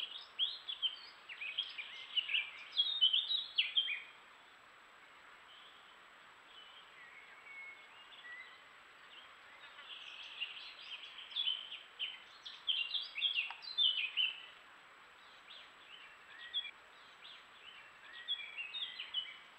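Small birds calling in quick chirping phrases, in three spells, over a steady faint hiss.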